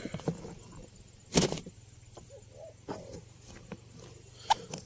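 Handling noises close to the microphone: scattered soft knocks and rustles, with one louder rustle about a second and a half in and a sharp click near the end.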